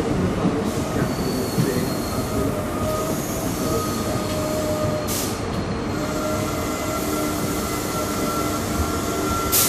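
Passenger train coaches rolling along the platform, wheels squealing with thin steady high tones over a continuous rumble, and a sharp clank about halfway through and another near the end.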